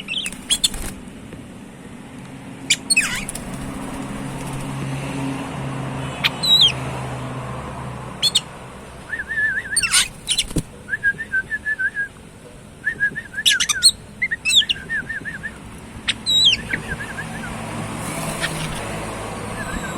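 Oriental magpie-robin (kacer) singing: sharp whistled notes sliding down in pitch, repeated every couple of seconds, with bursts of quick chattering notes through the middle and latter part.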